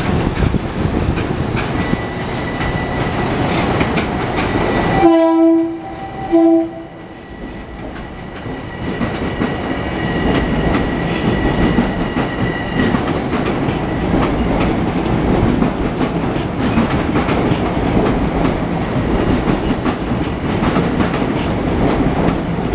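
Two short train horn blasts about five seconds in. Around them, a Budd M3 electric multiple-unit train runs out over the station's switches, wheels clacking over rail joints and crossings. A thin steady whine runs under the first half.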